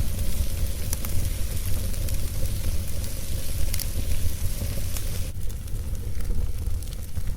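Wood fire burning with a steady hiss and a few sharp crackling pops, over a steady low rumble. The hiss drops off suddenly a little past halfway.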